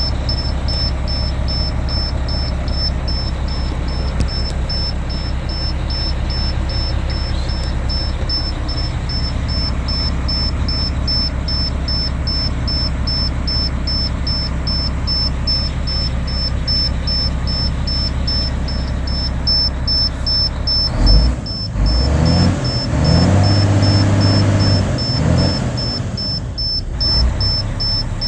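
Cummins ISM 370 inline-six diesel in an International 2574 truck idling steadily. About three-quarters of the way in it is revved twice, held up briefly, then drops back to idle. A high-pitched beep repeats about twice a second throughout.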